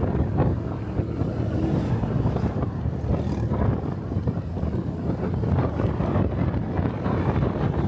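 Wind buffeting the microphone of a camera on a moving motorcycle: a steady, low, noisy rumble with the motorcycle running underneath it.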